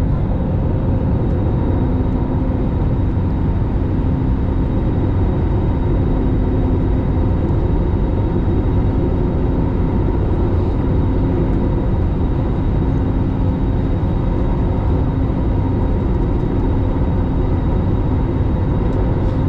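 Steady engine and airflow noise of an airliner heard from inside the cabin: a constant low rumble with a faint steady hum over it, holding even throughout.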